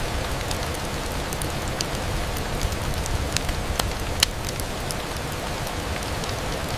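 Steady rain against a window, with scattered sharp ticks over the even hiss; the loudest tick comes a little past four seconds in.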